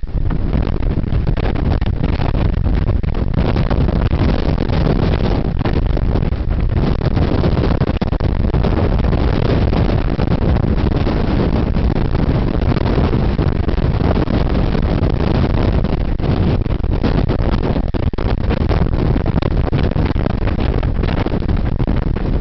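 Blizzard wind buffeting the microphone: loud, continuous rumbling wind noise, heaviest in the low end, with no letup.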